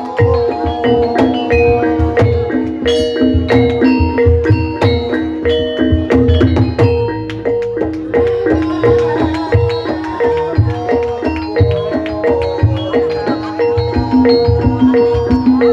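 Gamelan accompaniment for an ebeg horse-trance dance: a steady run of repeated melody notes on struck mallet instruments over low hand-drum beats.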